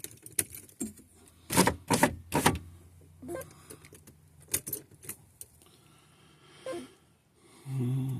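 Car's power window being lowered a little: sharp clicks and knocks from the switch and handling, with a low steady motor hum for a couple of seconds, and a short low hum near the end.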